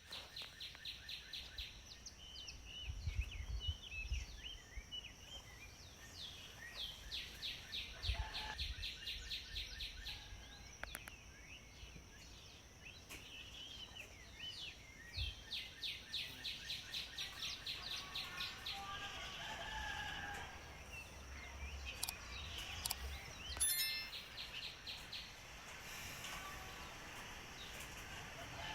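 House sparrows chirping, with long runs of rapid repeated chirps, several birds at once, over a steady high-pitched hiss. A few low thumps come through now and then.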